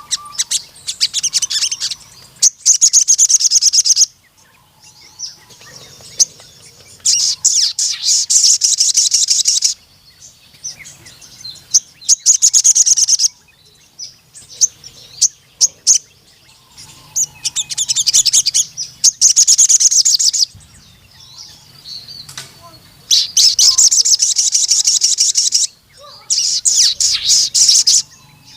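Crimson sunbird (sogon) singing: repeated bursts of rapid, high-pitched twittering trills, each one to three seconds long, with short pauses between them.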